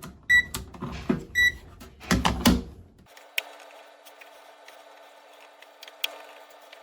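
Two short high electronic beeps about a second apart, then a brief burst of knocking and clatter, then a faint steady hum.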